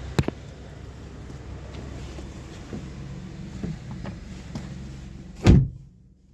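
A steady low hum with a few light knocks, then a car door is shut firmly about five and a half seconds in. After the shut everything goes much quieter.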